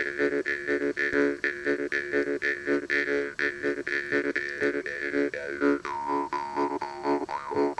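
Jaw harp (vargan) playing a rhythmic twanging pattern, about three strokes a second over a steady drone, its high overtones shifting as the mouth shape changes; about six seconds in the overtone drops and wavers.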